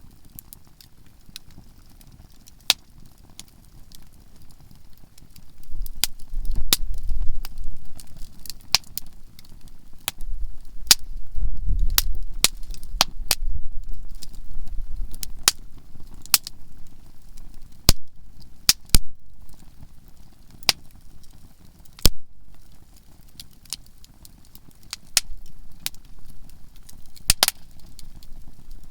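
Conifer firewood burning in a campfire, popping and crackling with sharp, irregular snaps. A low rumble swells about six seconds in and dies down by about seventeen seconds.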